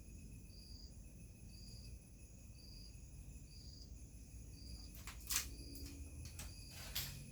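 Nature ambience: a low wind rumble under a short, high chirp repeating evenly about once a second, like a cricket, with a steady high ring. Two sharp clicks come near the end, the first one loudest.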